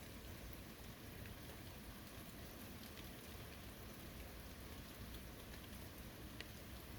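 Steady, soft rainfall, an even hiss with scattered individual drop ticks.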